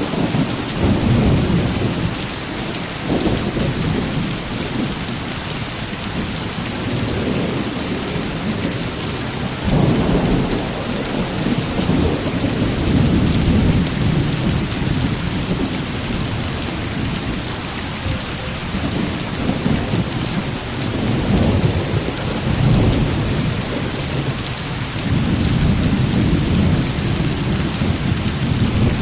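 Heavy rain falling steadily, with rolling thunder in the low range that swells and fades several times, strongest near the start, about ten seconds in, and again near the end.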